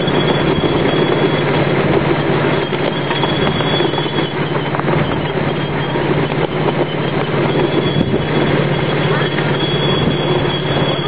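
Miniature ride-on train running along its track: a steady rumble of wheels on rail, with a faint high wheel squeal that comes and goes.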